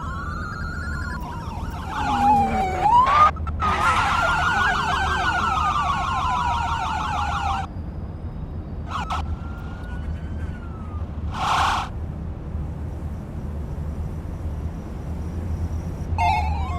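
Police car siren: a slow rising and falling wail that switches to a fast yelp for a few seconds and then cuts off, with the wail starting again near the end. A short burst of noise comes about two-thirds of the way through, over a steady low hum.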